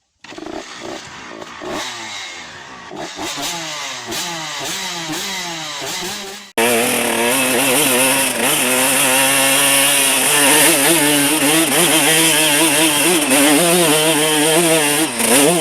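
Enduro motorcycle engines revving up and down. About six and a half seconds in, it cuts suddenly to a louder, nearer engine running at fairly steady revs with small rises and falls in pitch.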